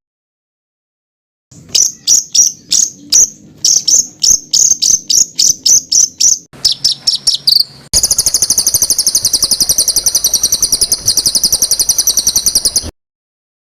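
Recorded songbird song used as masteran training material: a run of sharp, high chip notes about four a second that speed up into a rapid burst, then a continuous fast, harsh, high trill lasting about five seconds that cuts off suddenly.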